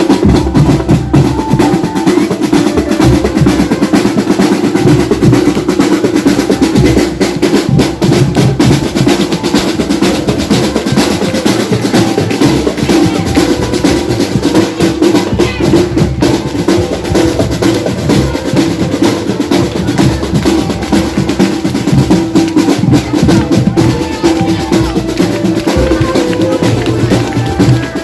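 Drum band playing a fast, continuous rhythm: snare drum rolls over bass drum beats.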